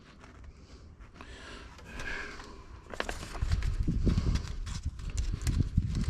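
Irregular knocking and thumping of fuel caddy parts being handled and fitted during assembly, with light clicks at first and heavier thumps from about three seconds in.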